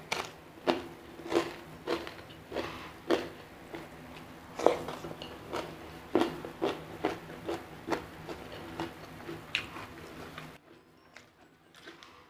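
A man chewing a mouthful of hand-eaten rice and side dishes, with a sharp wet chew about one and a half to two times a second. The chewing stops about ten and a half seconds in.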